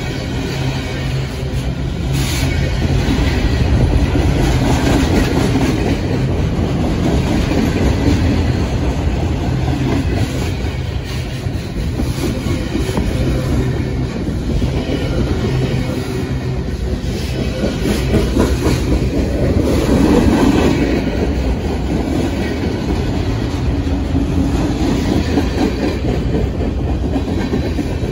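Freight train of flatcars loaded with military vehicles rolling steadily past close by: a continuous rumble of steel wheels on rail with occasional clicks.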